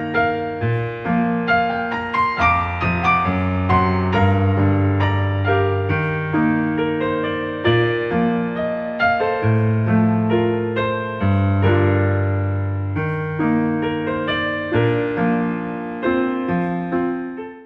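Background piano music, a gentle melody of struck notes over a bass line, cutting off abruptly at the end.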